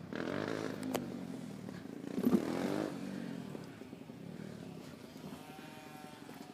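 Child's electric motorbike whining as it rides by, its pitch rising and falling, loudest about two and a half seconds in.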